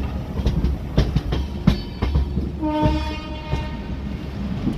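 Train running with wheels clicking over rail joints and a steady rumble, and a train horn sounding one steady note for about a second, about two and a half seconds in.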